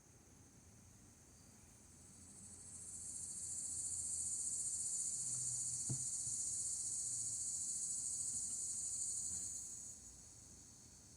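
An insect's high, steady buzzing that swells up over a couple of seconds, holds, and fades away near the end.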